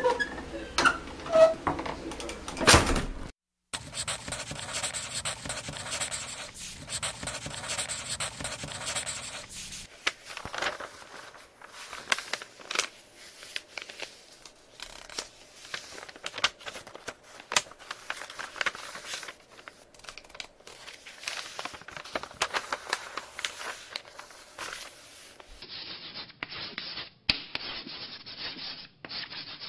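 Rubbing and scratching noises with many short clicks, in several separately recorded stretches with abrupt cuts between them.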